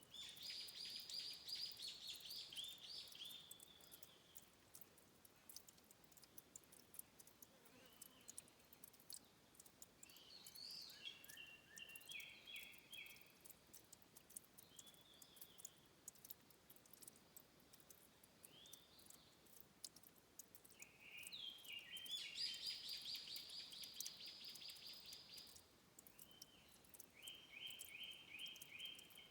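Small songbirds singing high, rapid trills of evenly spaced notes: a loud trill at the start and another about two-thirds of the way through, with quieter phrases between and near the end. Faint scattered ticks run underneath.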